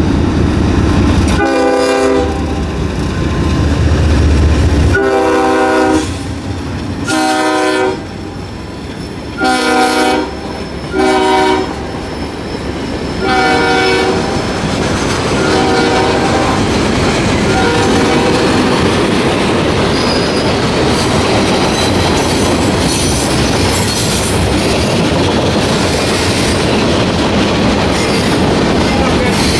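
A diesel freight locomotive's horn sounding about six blasts, long and short, over the heavy rumble of the approaching engine, with fainter blasts after. Then the freight cars roll past with a steady, loud noise of wheels on rail.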